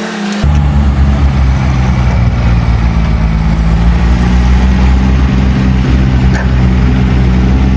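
Engine running steadily at a low, even pitch, cutting in abruptly about half a second in.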